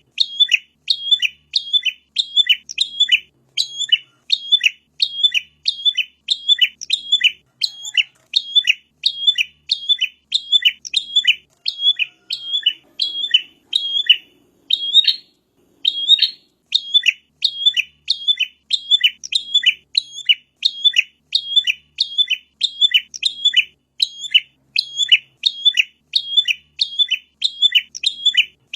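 Prinia (prenjak) song: a fast, repeated string of sharp, high chirps, several a second, kept up almost without a break, with a brief pause about midway.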